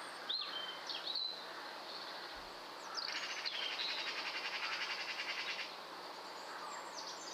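Wild birdsong: a few short whistled chirps in the first second or so, then a rapid, even trill lasting nearly three seconds.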